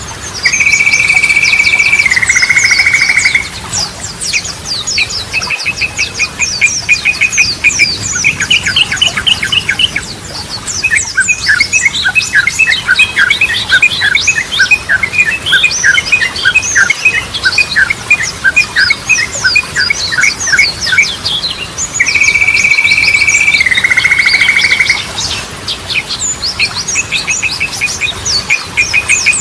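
Yellow-vented bulbul singing a busy, loud song: rapid chattering notes, a held whistled note that turns into a buzzy trill near the start and again about 22 seconds in, and a long run of quick repeated notes in between.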